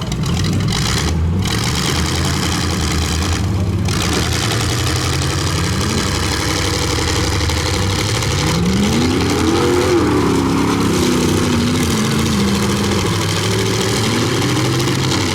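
Demolition derby pickup truck engines revving up and down as the trucks manoeuvre. One engine climbs sharply in pitch about two-thirds of the way through, then eases off and rises again near the end.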